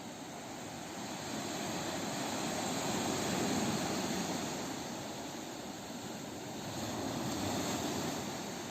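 Ocean waves breaking and washing on a beach: a steady rush of surf that swells twice and eases back.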